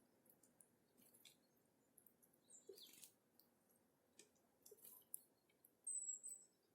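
Faint scattered ticks and pecks of small forest birds feeding on seed, with one short high-pitched bird call about six seconds in.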